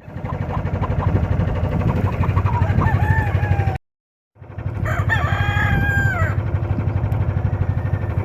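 Gamecock roosters crowing, one crow about two and a half seconds in and another about five seconds in, over a loud steady low rumble. The sound cuts out briefly between the two crows.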